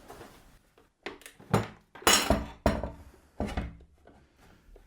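Allen key clicking and clinking against metal as the grub screws on a pillar drill's column are tightened: about six sharp knocks over a couple of seconds, a few with a short metallic ring.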